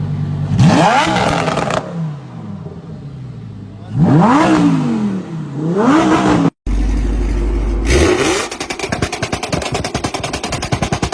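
Car engine revving: one rev rising and falling away, then two quick revs up and down. After an abrupt cut, a deep steady engine note followed by a fast, even pulsing.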